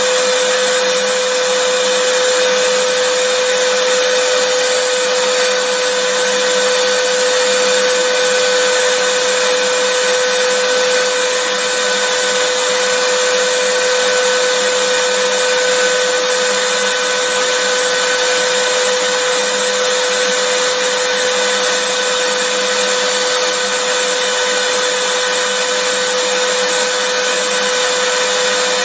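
Vacuum cleaner running continuously: a steady whine over an even rush of air, never changing in pitch or level.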